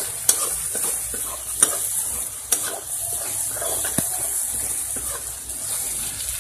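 Spice masala of onion, ginger and garlic sizzling in oil in a kadhai while a spatula stirs it, a steady frying hiss with a few sharp taps and scrapes of the spatula against the pan. It is being stirred so the cooked masala does not stick and burn.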